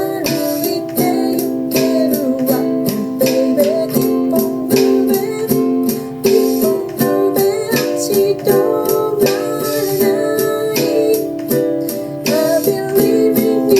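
Ukulele strummed in a steady rhythm of chords, playing the song's accompaniment.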